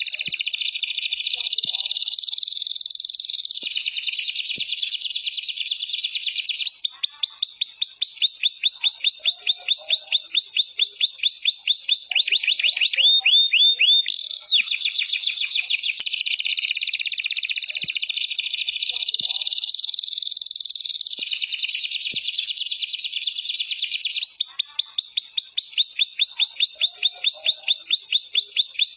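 Domestic canary singing a continuous song of rapid, high-pitched trills, switching to a new trilled phrase every few seconds without a break.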